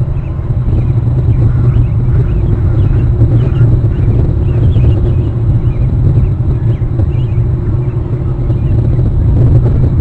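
Steady low rumble of wind buffeting an outdoor nest-camera microphone, with faint high chirps of birds scattered through it.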